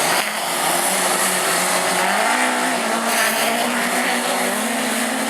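Several autograss race cars racing past together on a grass track, their engines rising and falling in pitch as they lift off and accelerate.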